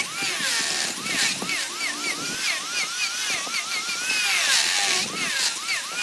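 Handheld power tool working wood, its motor whine dipping in pitch and recovering over and over, about two or three times a second, as it bites and is eased off.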